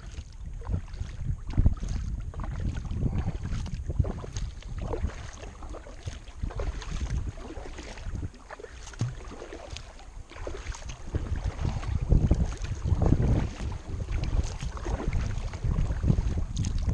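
Kayak paddle strokes splashing and dripping in the water, with wind buffeting the microphone.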